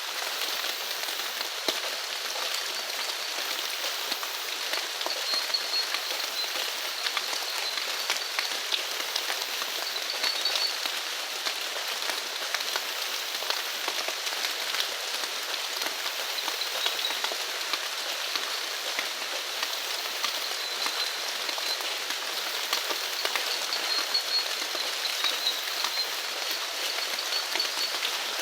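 Steady rain falling, a dense patter of many small drops. A faint, high-pitched animal call comes and goes several times over it.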